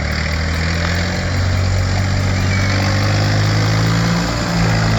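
Tractor engine running steadily and loud, its pitch holding nearly constant with a slight shift about four seconds in.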